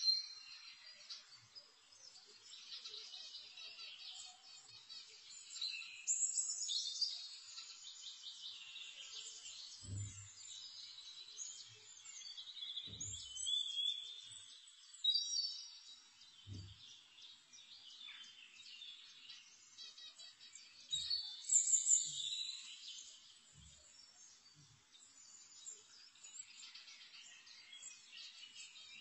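Small birds chirping and twittering, in irregular bursts of high calls throughout. A few faint low thumps come in the middle.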